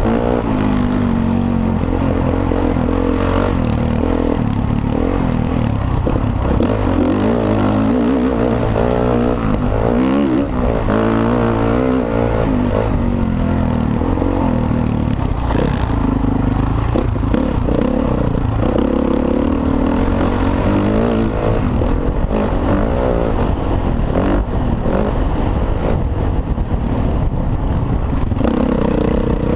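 Motocross dirt bike engine revving hard, its pitch rising and falling again and again as the rider works the throttle and gears, over a constant low rumble.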